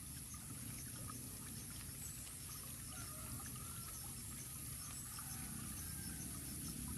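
Steady low rumbling background noise and a high hiss, with faint short chirping calls now and then.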